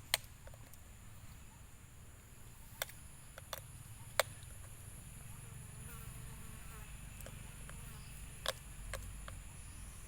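Steady high-pitched insect drone, with a handful of sharp clicks scattered through it.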